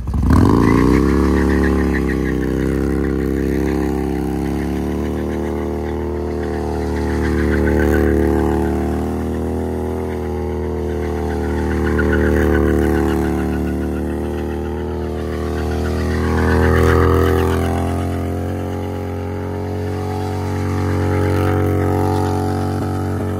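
V-twin motorcycle engine revving up and then held at high revs through a rear-tyre burnout, the throttle swelling and easing about every four to five seconds.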